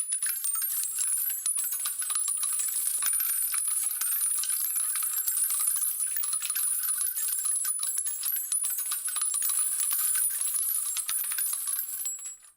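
A steady stream of small metal objects clinking and rattling densely and without pause, with the sound stopping near the end.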